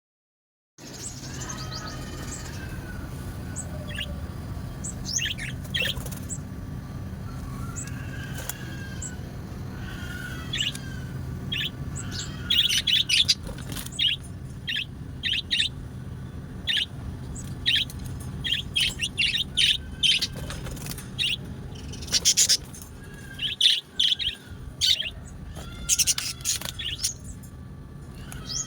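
Small birds chirping, with many short, sharp calls that grow busier about halfway through, over a steady low hum.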